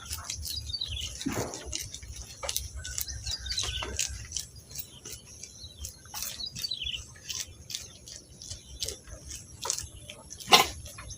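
Small birds chirping, a few short calls that fall in pitch, over scattered clicks and knocks and a steady low rumble. A sharp knock near the end is the loudest sound.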